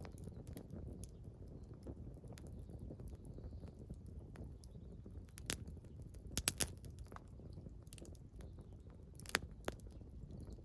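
Small wood campfire crackling, with irregular sharp pops over a low steady rumble. The loudest pops come in a quick cluster about six and a half seconds in and again about nine and a half seconds in.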